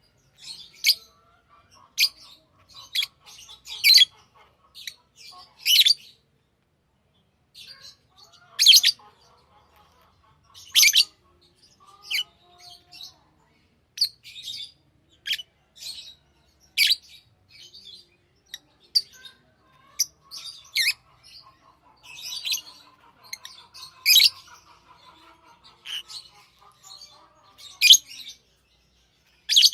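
Pet lovebirds calling: short, sharp, shrill chirps at an irregular pace of about one or two a second, over a softer chattering that comes and goes.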